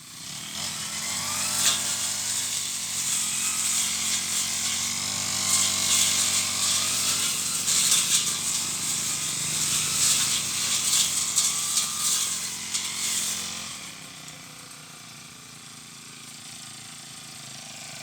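Brush cutter engine revving up at the start and running at high speed while cutting weeds, with a loud hiss of the cutting head through the growth; about 14 seconds in it drops back to a quieter idle.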